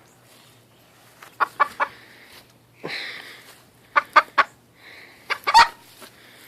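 A chicken clucking: short sharp clucks in quick runs of three, twice, with a louder single cluck near the end.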